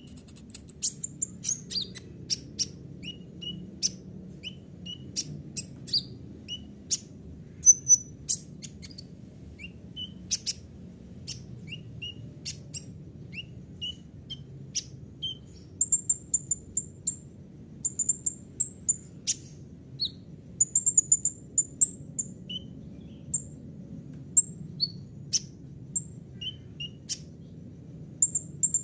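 Kolibri ninja (a sunbird) singing a stream of short, high chirps and sharp ticking notes at irregular spacing, over a faint steady low hum.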